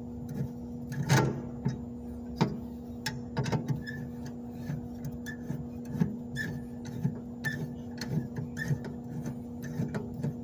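Irregular metallic clicks and knocks of hand tools working the bolts on a reefer unit's cover, over a steady mechanical hum.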